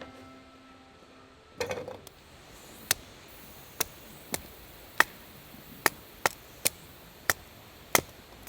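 Knife chopping food on a cutting board: about nine sharp, separate strokes at an uneven pace, the first after a short rustle.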